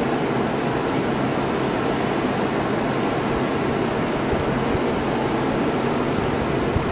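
Jet airliner engines running, heard as a steady rushing noise that does not change.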